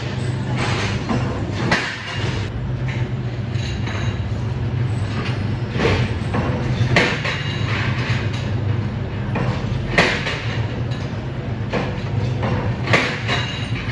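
Workshop machinery running with a steady low hum, broken by irregular sharp metallic clanks and knocks.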